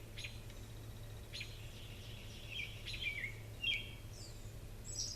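Small birds chirping in short notes, some of them falling in pitch, over a steady low hum. A higher trill starts right at the end.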